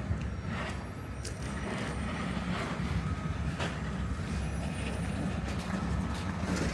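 Steady low rumble of a passing vehicle or train, with soft sharp crunches about once a second over it.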